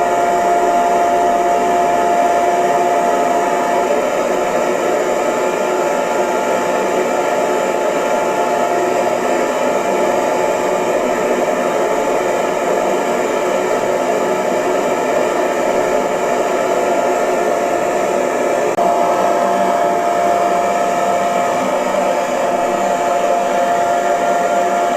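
Hair dryer running steadily, a continuous blowing hiss with a motor whine that fades about four seconds in and comes back near the end.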